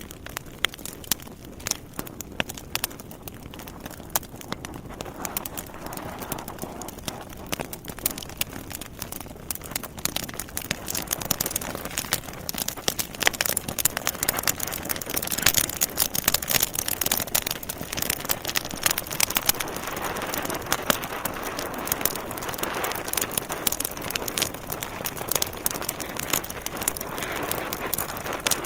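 Wood fire burning in a fireplace: a dense stream of sharp crackles and pops over a soft hiss, growing busier and louder about halfway through.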